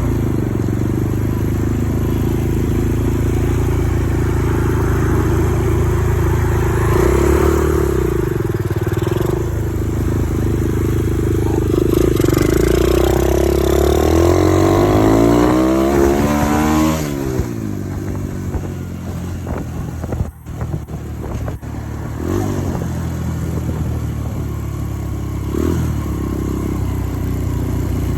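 Dirt bike engine running under way, its pitch rising and falling with the throttle, with a big sweep around the middle. After that it settles lower and a little quieter, with a couple of brief dips.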